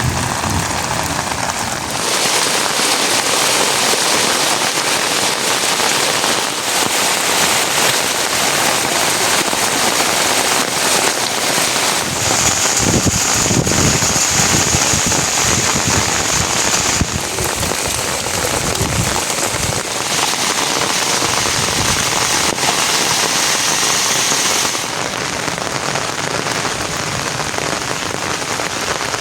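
Steady rain falling, a dense even hiss whose tone changes abruptly a few times. For two stretches of several seconds in the middle, a high, narrow, steady hiss sits on top of it.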